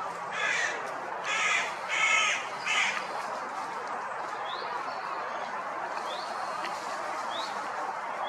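A crow cawing four times in quick succession, then a small bird's short rising chirp repeating about once a second.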